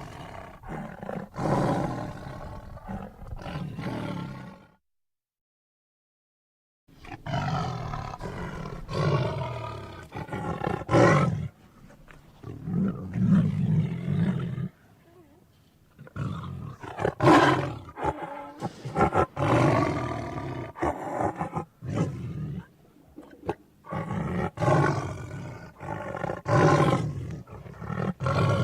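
Tiger roars and growls, one after another, with about two seconds of dead silence about five seconds in.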